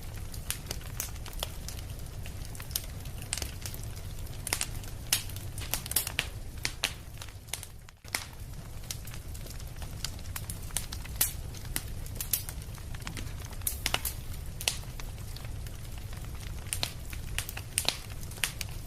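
Wood fire burning with a steady low rumble and frequent sharp crackles and pops, with a brief dip about eight seconds in.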